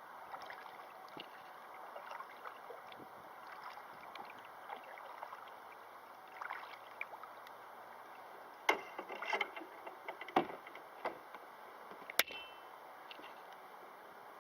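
River water running steadily, with a run of sharp knocks between about nine and twelve seconds in.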